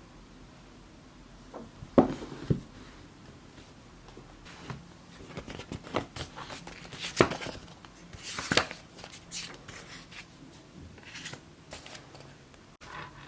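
Small objects handled close to the microphone: sharp knocks about two seconds in and again near the middle, with paper-like rustling and scraping in between.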